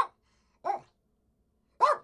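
Poodle barking: three short sharp barks, the last after a pause of about a second.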